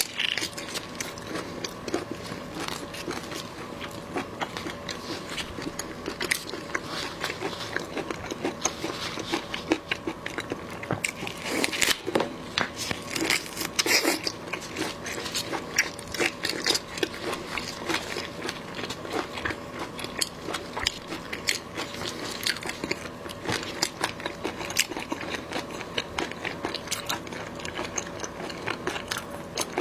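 Close-miked eating of tiger prawn: biting into the head and chewing, a dense run of small crisp clicks and crunches, with a few louder bites near the middle.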